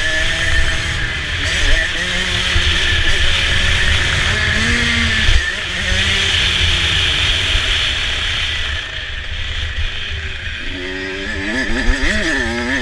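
Motocross bike engine revving up and falling off over and over as the throttle is worked, with a heavy low rumble underneath. The quick rises and drops come thickest near the end.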